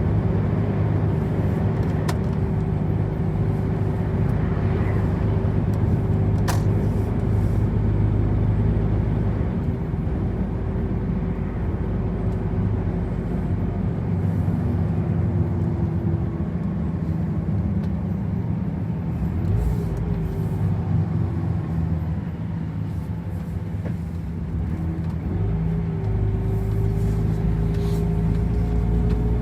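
Truck driving: a steady engine drone with road noise and a whine. The engine eases off around the middle, then pulls again near the end with a rising whine.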